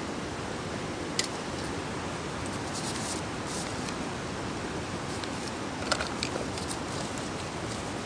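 A wood campfire crackling, with a sharp pop about a second in and a cluster of pops around six seconds in, over a steady rushing noise.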